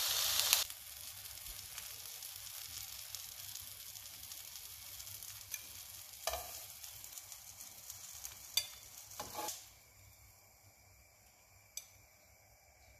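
Eggplant slices frying in oil in a non-stick pan: a steady sizzle, loud at first and dropping about half a second in, then fading to faint near the end. A few light clicks and knocks come in the middle as the slices are lifted out onto a plate.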